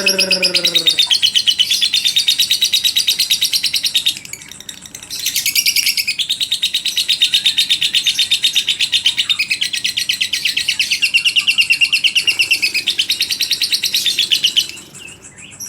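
Lovebird giving its long chattering trill, the rapid high-pitched 'ngekek' song, at about ten notes a second. It breaks off for about a second around four seconds in, resumes and stops near the end. A low falling sound overlaps it in the first second.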